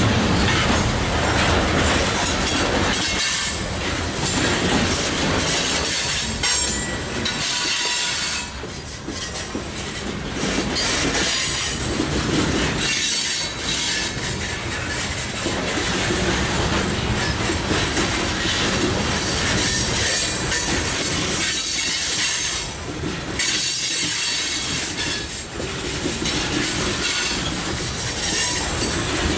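Loaded coal hopper cars of a long freight train rolling past, steel wheels clacking over the rail joints and squealing on the rails.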